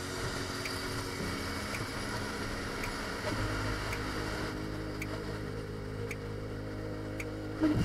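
Yamaha MT-15's single-cylinder engine running at road speed under a steady rush of wind, its note shifting about three seconds in. A light tick about once a second, and a brief knock near the end.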